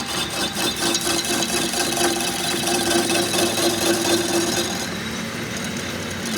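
Rapid rubbing or scraping tool work in a workshop, with a steady hum through most of it that stops near the end.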